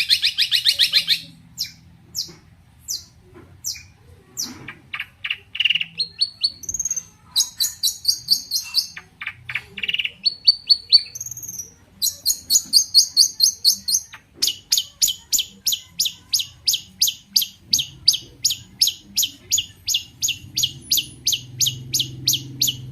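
Long-tailed shrike (cendet) singing: rapid runs of sharp, high repeated notes broken by short pauses. About two thirds of the way in the notes settle into a long, even, fast train.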